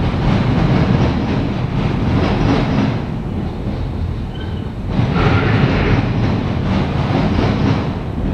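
Freight train's autorack cars rolling past, steel wheels clattering over rail joints above a steady rumble, with a brighter, rattlier stretch from about five seconds in.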